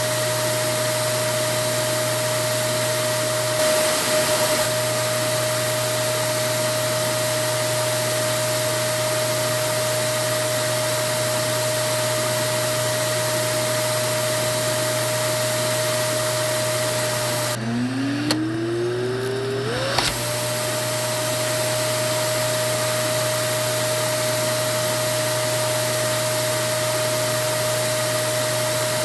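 A vacuum cleaner motor runs steadily with a constant high whine over its airflow rush. About 18 seconds in, the motor sound drops away, and its whine climbs back up in pitch over about two seconds as it returns to full speed.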